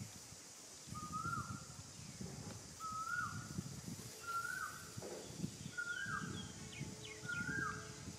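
A bird repeating the same short call, a quick rise in pitch that then levels and drops away, about every second and a half. Low rustling noise runs beneath it, and a few faint high chirps come in near the end.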